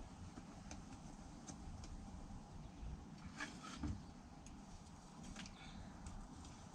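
Faint scattered clicks and a dull knock a little past the middle, over a low steady background hum: the small handling noises of someone searching about a workshop for a ratchet strap.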